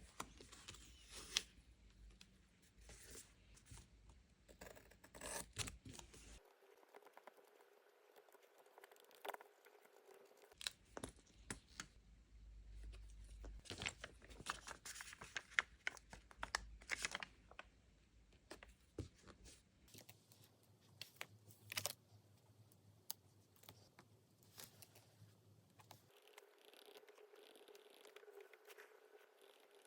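Paper and sticker sheets being handled for diary decorating: rustling and tearing, with many small clicks and taps.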